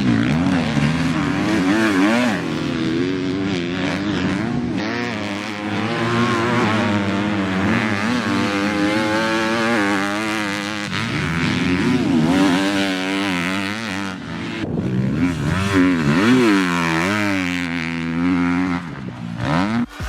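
Motocross bike engine revving hard, its pitch climbing and dropping again and again as the rider accelerates, shifts and rolls off the throttle.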